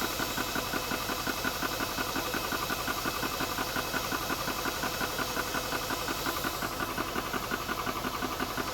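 ToAuto A3 PCP air compressor running steadily with a fast, even pulsing and hiss, its cooling fan running too, partway through filling a high-pressure tank at about 1,000 psi.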